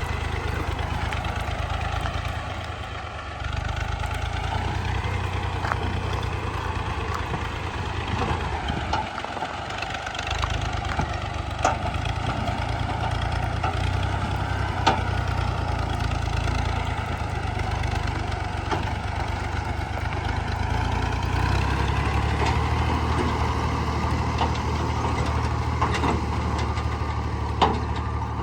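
Fiat 480 tractor's diesel engine running steadily under load, driving a belt-driven wheat thresher whose steady whir sits above the engine's low pulsing. The engine sags briefly twice, and a few sharp clicks sound.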